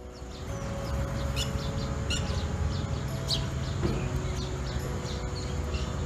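A flock of small birds chirping: many short, quick, falling chirps overlapping throughout, over a steady low rumble.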